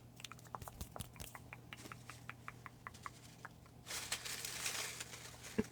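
Soft mouth clicks close to a microphone, with a quick run of them about two seconds in, then a faint breathy hiss from about four seconds in.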